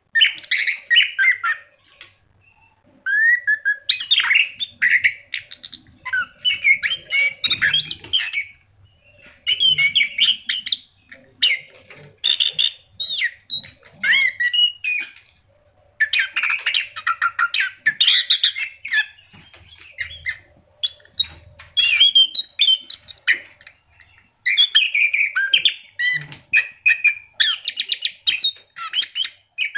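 Orange-headed thrush (anis kembang) in full song: long runs of quick, varied whistled and chattering phrases, broken by short pauses every few seconds.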